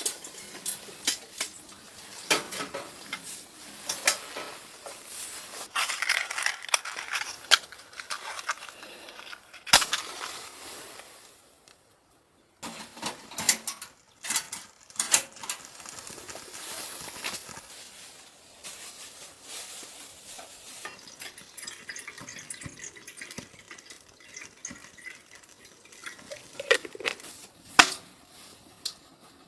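Metal cookware and utensils clinking, knocking and scraping in irregular handling sounds, with a brief break about twelve seconds in.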